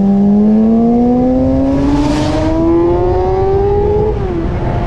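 Vehicle engine accelerating hard, its pitch climbing steadily for about four seconds, then dropping and levelling off near the end as the throttle eases or a gear changes.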